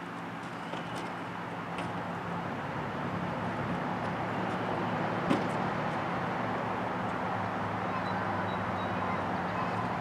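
An engine running steadily, its hum slowly growing a little louder, with a few sharp clicks, one about five seconds in.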